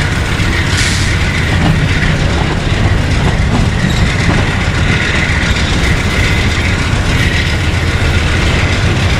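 Freight train rolling steadily past, a continuous rumble and clatter of railcar wheels over the rails, with a thin squeal from the wheels that swells and fades.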